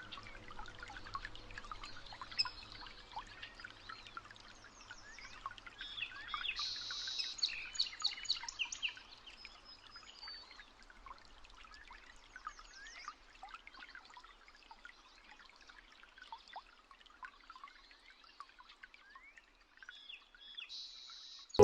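Small birds chirping and singing: many quick, high, sliding chirps from several birds, busiest a quarter to halfway in. A faint low musical hum fades out in the first few seconds.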